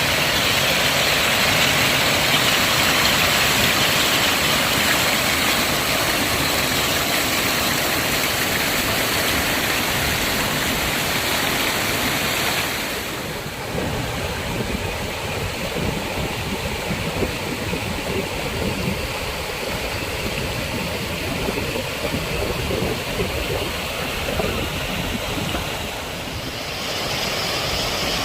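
A mountain stream swollen by heavy rain, rushing water making a loud, steady roar. The sound changes abruptly about halfway through, becoming less hissy, and shifts again near the end.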